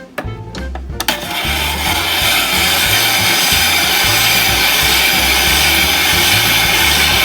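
Kai shaved ice maker shaving ice: a loud, steady grinding hiss that starts about a second in, over jazz background music.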